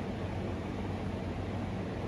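Central Machinery wood lathe running steadily: an even hum with a hiss over it.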